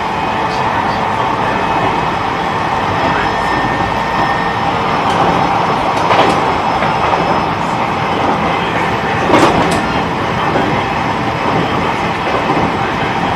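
E129 series electric train running at speed, heard from inside the car: a steady rumble of wheels on rail. A faint motor whine is heard in the first few seconds, and there are two sharper knocks from the track about six and nine and a half seconds in.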